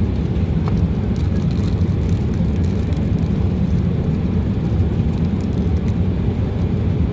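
Steady low roar of a jet airliner cabin in flight, an even rumble at a constant level.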